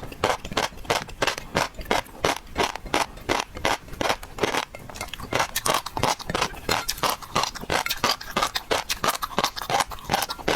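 Close-miked eating of seafood: rapid wet crunching and clicking, about four or five sharp clicks a second, steady throughout.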